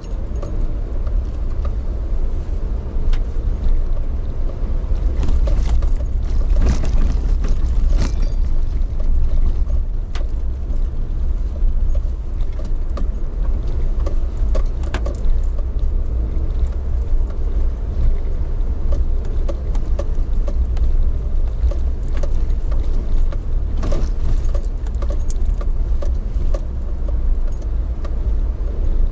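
Steady low rumble of a moving vehicle heard from inside, with light rattling and occasional clicks.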